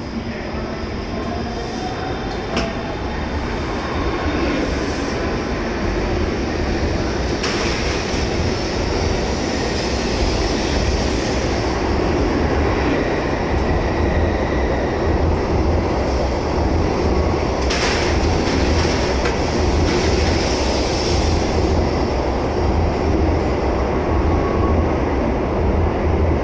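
N700S Shinkansen train pulling out and gathering speed alongside the platform: a steady rolling rumble that grows louder over the first several seconds, with a faint electric whine rising in pitch early on as it accelerates.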